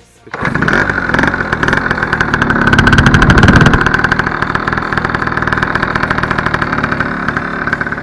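Yamaha Jog Nexon scooter's two-stroke engine, fitted with a 70 cc cylinder kit and stock ROX exhaust, starting up, rising to a brief higher-revving peak about three seconds in, then settling into a steady idle. The exhaust sounds fairly quiet for a tuned two-stroke.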